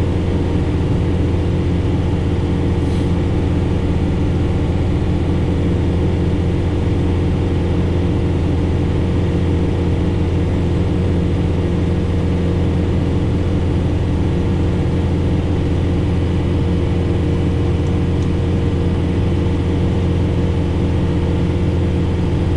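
John Deere 4066R tractor engine running steadily under load, driving a rear-mounted Frontier SB1174 snowblower through the PTO in heavy wet snow, heard from inside the tractor cab as a constant low drone. The load pulls the PTO down to about 530 rpm from 550 at no load.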